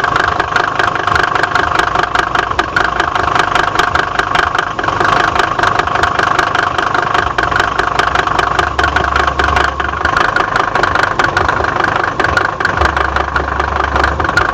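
Mercedes-Benz OM605 five-cylinder diesel engine idling steadily with a fast, even knocking running through it, the knock the owner is trying to trace.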